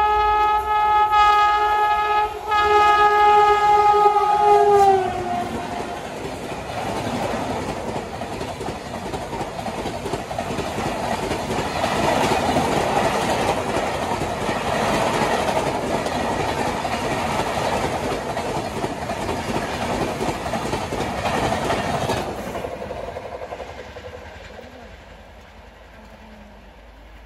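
Electric locomotive horn blowing two long blasts, the second falling in pitch as the engine passes at speed. Then the express train's coaches rush past on the track for about fifteen seconds. Near the end only a faint, distant train is heard.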